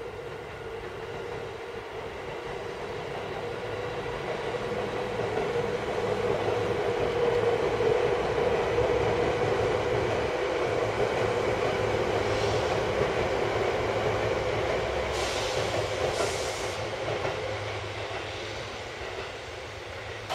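An electric commuter train passing by, growing louder to a peak about a third of the way in and fading toward the end, with a steady hum throughout. Two short, high-pitched hissing sounds come near the end.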